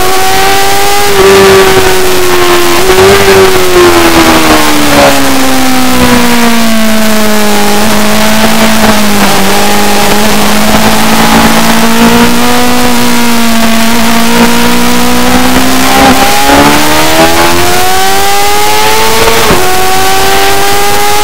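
Superbike engine running hard on a circuit. Its pitch falls over several seconds as the bike slows, holds low for a while, then climbs again under acceleration, with sharp breaks at gear changes about three seconds in and twice in the last third. A steady rush of wind and road noise runs underneath.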